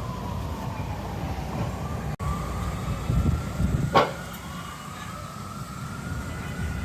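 An emergency-vehicle siren wails, its pitch slowly falling and rising, over the low rumble of city traffic. There is a sharp click about four seconds in.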